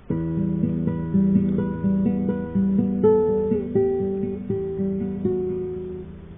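Acoustic guitar played solo: picked notes and chords at about four a second, with the last notes ringing out and fading near the end.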